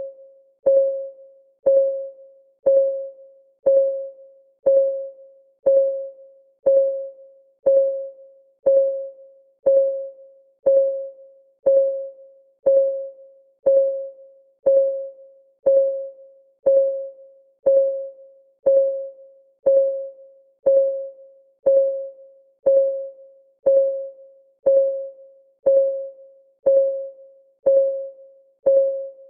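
Electronic clock-ticking sound effect of a countdown timer: a short pitched tick about once a second, each one fading quickly.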